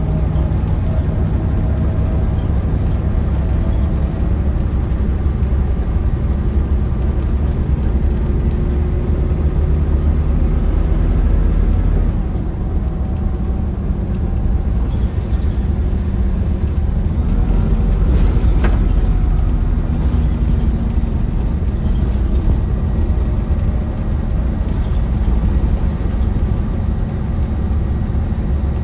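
Scania L94UB city bus heard from inside the cabin while driving: its Scania DC9 five-cylinder diesel runs steadily under the road noise, with one sharp knock a little past the middle.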